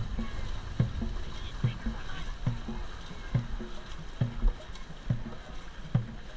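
Dragon boat crew paddling at a steady race pace: a low thud on every stroke, a little more than one a second, over the wash of water.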